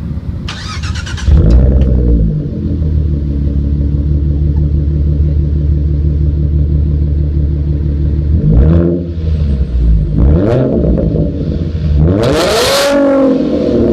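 2014 Ford Mustang's 3.7-litre V6 being started and revved through its exhaust: a brief crank, the engine catching with a flare about a second in, then a steady idle. Two short throttle blips follow, then a bigger rev that climbs and falls back near the end.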